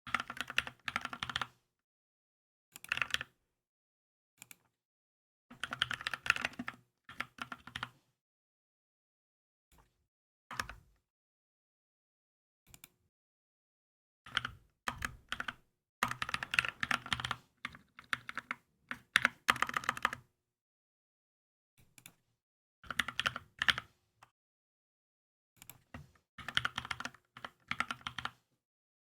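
Keychron K2 mechanical keyboard being typed on in bursts of rapid keystrokes, with pauses of a few seconds between bursts; the longest run of typing is in the second half.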